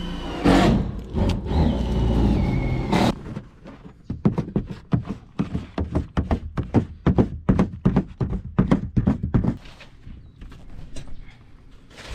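A small electric motor runs for about three seconds, its pitch dropping slightly near the end. Then comes a quick run of knocks, about three a second, lasting some six seconds.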